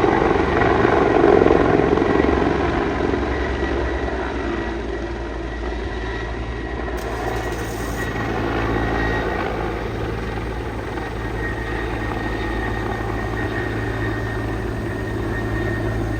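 Air ambulance helicopter's rotor and turbine noise, loudest for the first couple of seconds, then easing off and holding steady as it flies away, over a steady low hum.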